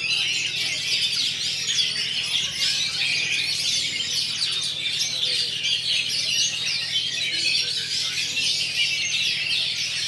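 Oriental magpie-robins (kacer) singing together in a dense, unbroken chorus of quick chirps and whistles, over a steady low hum.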